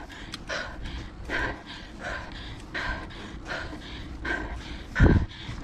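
A mountain biker panting hard, with quick, even breaths about three-quarters of a second apart. A low thump comes about five seconds in.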